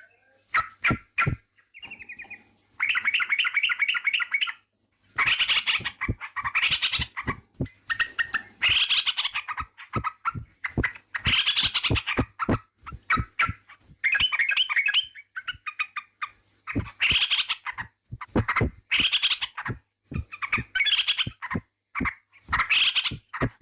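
Yellow-vented bulbul (trucukan) singing in a run of short, chattering phrases about a second apart, with sharp clicky notes between them and brief pauses near the start.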